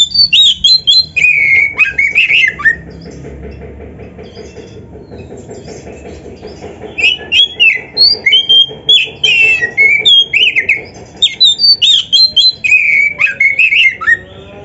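Oriental magpie-robin (kacer) singing a loud, fast run of high whistled and sliding notes, a song full of imitated phrases of other birds. It pauses about three seconds in, when only a fainter low, rapid pulsing is heard, and resumes about seven seconds in.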